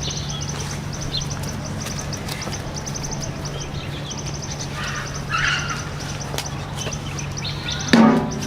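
Birds chirping, with a fast repeated high trill, over a steady low hum. A short, louder call comes near the end.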